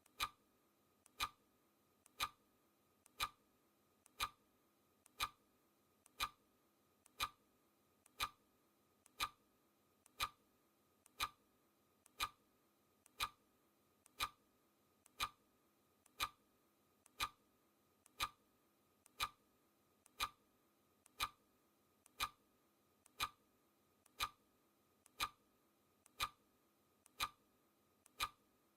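A clock ticking sound effect, one sharp tick every second, each with a faint click just before it, marking the seconds of a countdown timer.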